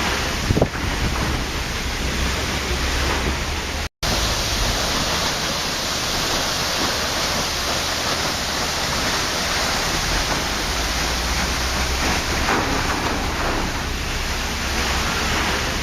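Waterfall: water falling and rushing in a steady, dense roar. The sound cuts out for an instant about four seconds in.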